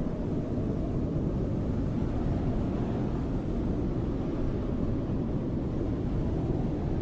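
Snowstorm wind blowing steadily: a deep, even rush of noise with no distinct gusts.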